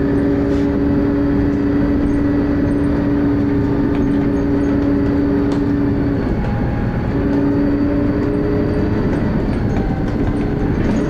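Dennis Arrow bus heard from on board: a steady engine and drivetrain rumble with a droning whine. The whine drops out briefly about six seconds in and returns at the same pitch about a second later.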